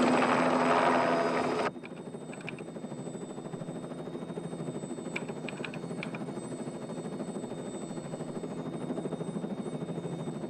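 Helicopter rotor and turbine running steadily. The sound drops suddenly to a quieter, fluttering drone about two seconds in.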